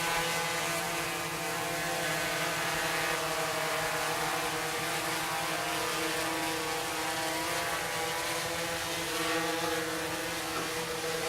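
Drone's propellers whining steadily in flight: a hum of several steady tones together, the pitch shifting slightly near the end.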